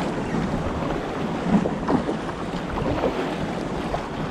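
Wind buffeting the microphone over water sloshing and splashing against a sea kayak in choppy waves, with a few short louder splashes about a second and a half to two seconds in.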